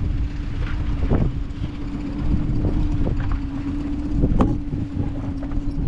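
Wind buffeting the microphone, with a steady hum underneath and a couple of short knocks, one about a second in and one near the end.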